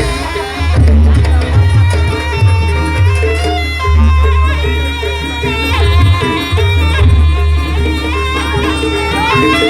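Traditional jaranan buto ensemble music from Banyuwangi, played loud: drums over a heavy pulsing bass, with a wavering melodic line above.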